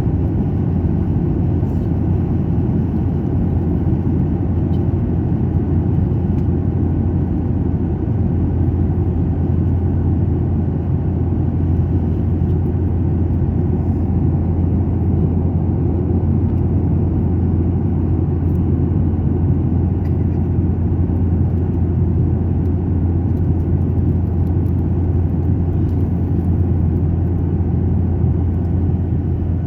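Steady low drone of an airliner heard from inside the passenger cabin: engine and airflow noise, unchanging throughout.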